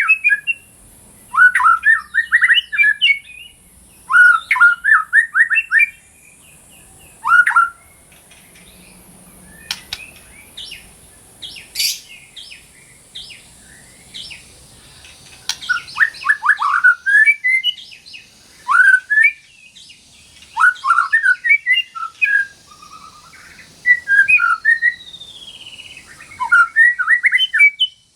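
White-rumped shama (murai batu) singing in bursts of rapid, sweeping notes with short pauses between phrases, and a run of sharp upward chips in the middle. A faint steady high hiss lies behind the song.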